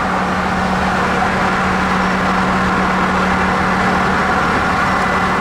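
Tow truck's engine running at a steady speed with a constant hum while its winch pulls a wrecked vehicle out of a ditch.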